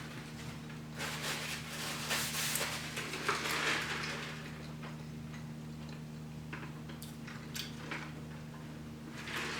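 Close-miked eating: wet chewing and smacking of a chili cheese burger, with small crackly clicks, busiest in the first few seconds. Under it runs a steady low hum.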